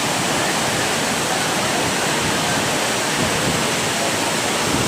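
Heavy rain pouring down with rainwater rushing, a steady dense hiss.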